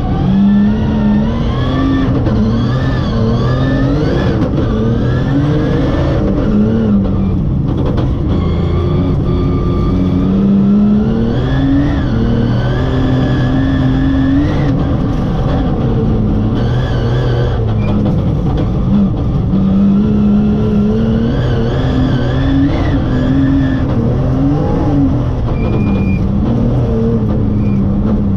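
Rally car engine revving hard from inside the cockpit, its pitch climbing and dropping again and again as the driver shifts up and down through the gears at speed.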